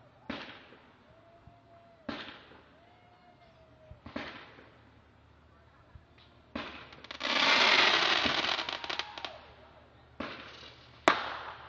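Fireworks going off: sharp bangs about two seconds apart, each fading away, then a long dense crackling burst lasting a couple of seconds midway. Another bang follows, and a sharp, loud crack comes near the end.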